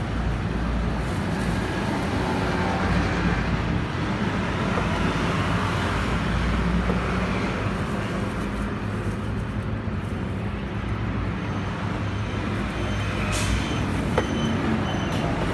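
Steady road traffic, with the low rumble of a large vehicle's engine running nearby.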